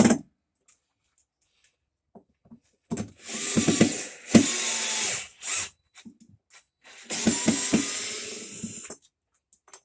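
Power drill running in two bursts of a couple of seconds each, with a short pause between them.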